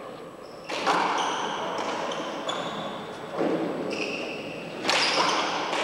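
Four-wall handball rally: the rubber ball smacking hard off hands and walls three times, about a second in, after three and a half seconds and near five seconds, echoing in the enclosed court, with short high squeaks between the hits.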